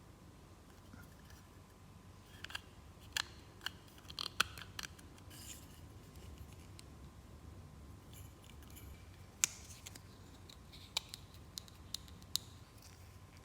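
Light clicks and taps of toys and packaging being handled during an unboxing. They come in two scattered clusters, starting about two and a half seconds in and again about nine and a half seconds in.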